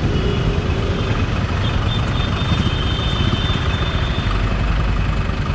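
Royal Enfield Meteor 350's 349 cc single-cylinder engine running, its exhaust note smooth and steady, a dense low rumble with a haze of noise above it.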